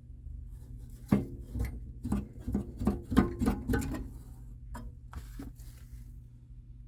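A quick run of knocks and rattles from hard objects being handled, lasting about three seconds, then a few lighter knocks, over a steady low hum.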